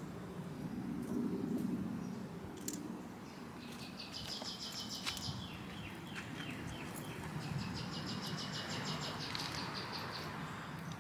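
A bird chattering in two fast, high trills, the first short and the second about three seconds long, over a faint low background hum.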